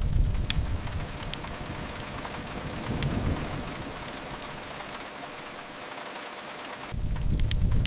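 Steady rain hiss with sharp crackles of a wood fire popping over it. A low rumble sits under it at the start and eases off about a second in, then comes back abruptly near the end.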